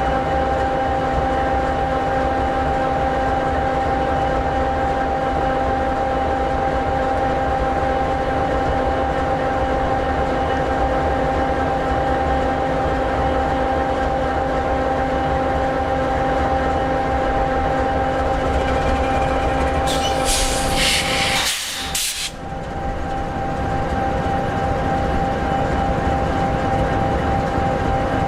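EMD 16-710G3B turbocharged V16 diesel of an SD60E locomotive idling steadily, a constant drone with a held whine. About twenty seconds in, a loud hiss of escaping air lasts about two seconds.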